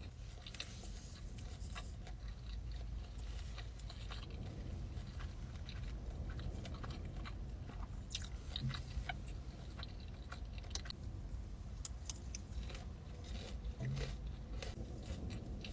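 A person biting and chewing food, with scattered crunches.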